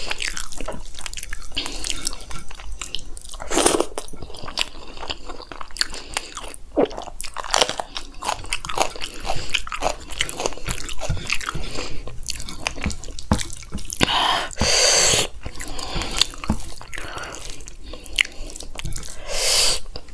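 Close-miked chewing of mouthfuls of rice and chickpea curry (chole chawal) eaten by hand, with wet clicking mouth sounds throughout. It gets louder for a moment about four seconds in, again at around fourteen to fifteen seconds, and once more near the end.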